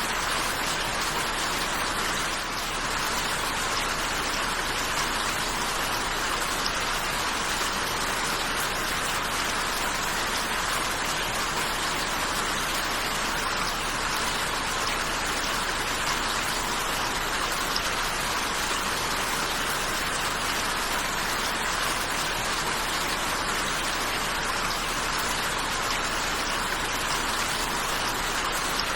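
Steady rainfall: an even, unbroken hiss of many drops, without thunder or any other sound standing out.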